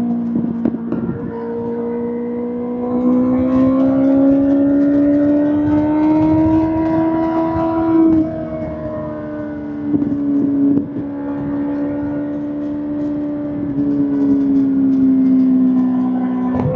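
Kawasaki ZX-6R inline-four running through an SC-Project SC-1R exhaust. The engine note climbs slowly for several seconds and drops sharply about eight seconds in. It picks up again and then holds fairly steady, easing down near the end.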